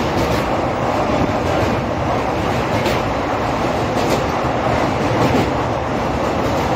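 Passenger train running over a steel truss bridge, heard from inside the coach: a loud, steady rumble of wheels on rails with a few faint clicks.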